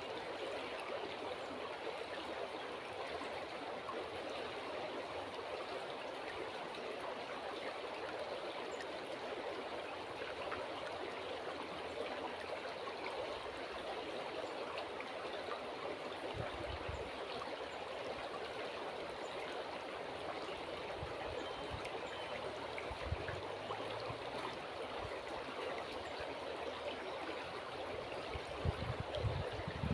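River water flowing and rushing steadily. A few short low thumps come in the second half, the loudest near the end.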